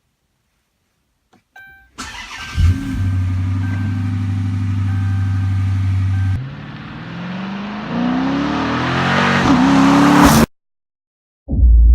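A few short electronic beeps, then a Dodge Charger R/T's HEMI V8 starting with a brief rev flare and settling into a steady idle. After a sudden change, the engine revs up in rising sweeps and cuts off abruptly. A deep low rumble begins near the end.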